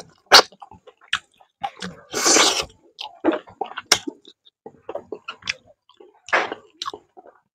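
A person chewing a mouthful of fish curry and rice close to the microphone, with irregular wet lip smacks and clicks, and one short, louder rush of noise about two seconds in.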